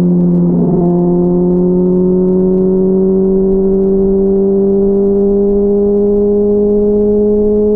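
Inline-four sport motorcycle engine at freeway cruising speed, a loud, steady note that creeps slowly up in pitch, with a brief wobble under a second in.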